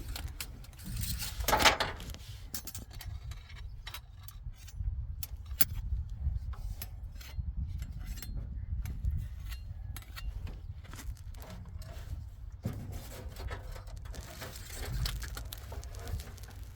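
Scattered metallic clicks and clinks of hands and tools working on a truck's fuel line hoses, with a louder scrape about a second and a half in, over a steady low rumble.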